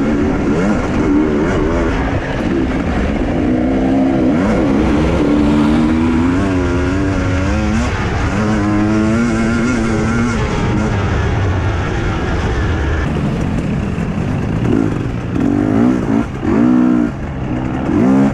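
Husqvarna TE 250i two-stroke enduro motorcycle engine being ridden hard, its pitch rising and falling again and again as the throttle is worked. In the last few seconds the throttle is blipped on and off in short stabs.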